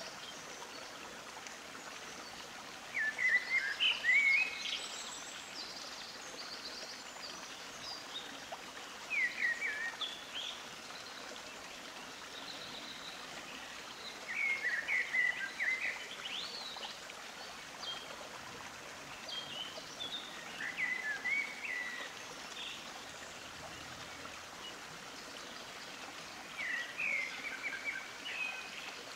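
Small birds chirping in short bursts of quick gliding notes, about every five to six seconds, over a steady hiss.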